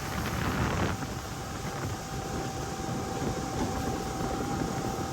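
Wind buffeting the microphone aboard a boat, a steady rough rush with a thin, steady whine running underneath.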